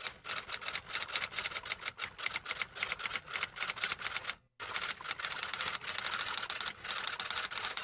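Typewriter sound effect: mechanical typewriter keys clacking in a rapid run of sharp strikes, several a second, with a short pause about four and a half seconds in.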